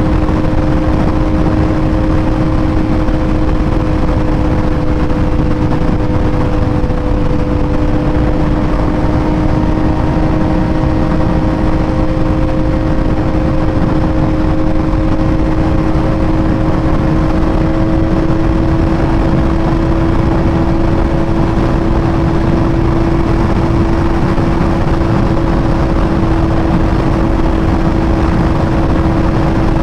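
Sportbike engine running at a steady cruising speed, its pitch holding nearly level with a slight rise, over a constant rush of wind and road noise.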